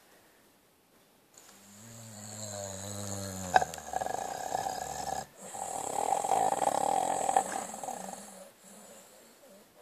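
Sleeping dog snoring: one long droning snore that swells for about two seconds and ends with a click, then after a brief break a louder, breathier snore that fades out.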